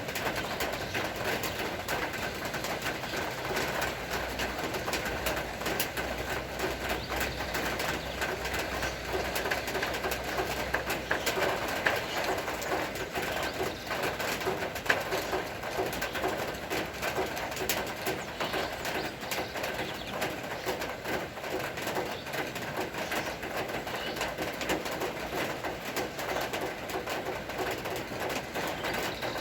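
Steady rain falling, a dense patter of drops, with doves cooing through it.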